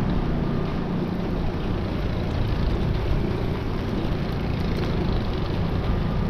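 Steady city street noise: a continuous low rumble of traffic, with no single event standing out.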